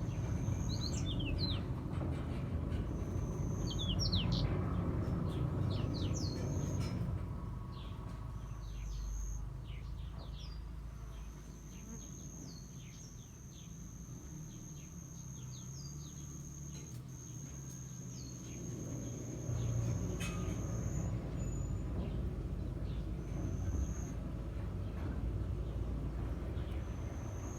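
Garden birds chirping with many short, falling calls, most often in the first half. A high, steady insect trill comes in short stretches and then holds for about ten seconds in the middle. A low rumble runs underneath.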